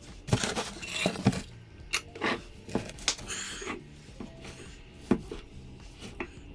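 Light knocks and clinks of small items being handled and set down, about eight in all and most in the first three seconds, with brief rustling between them.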